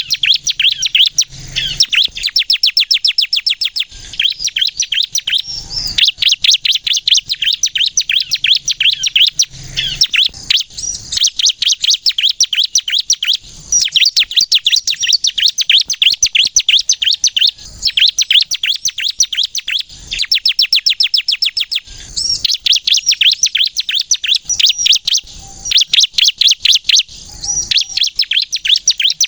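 A ciblek, the bar-winged prinia, singing hard in long runs of very fast, sharp, high-pitched repeated notes. The runs break off for short pauses every few seconds.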